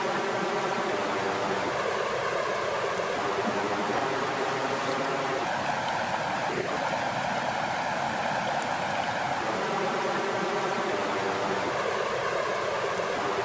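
Water flowing and splashing in a steady, continuous rush.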